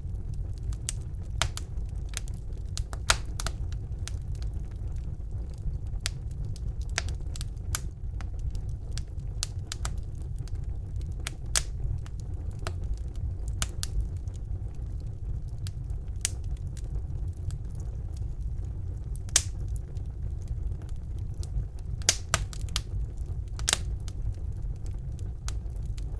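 Wood fire burning in a fireplace: a steady low rumble of the flames with irregular sharp crackles and pops from the burning logs, a few louder pops scattered through.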